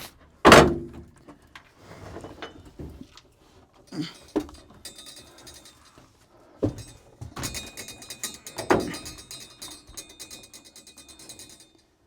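Metal knocks and thunks of a car's sunroof assembly being worked loose from the roof: one sharp loud knock about half a second in, a few more scattered through, and a run of quick fine clicking in the second half.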